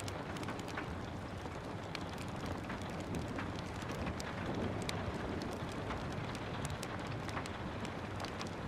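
Steady rain hiss with a wood fire crackling over it in many small, scattered pops.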